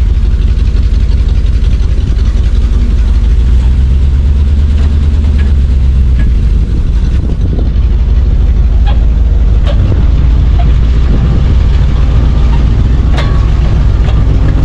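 Chevrolet C60 truck engine running steadily with a heavy low rumble, a few short clicks or knocks over it.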